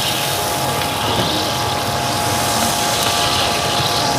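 Skewered tentacles frying in oil on a flat steel griddle, making a steady sizzle over a constant mechanical hum.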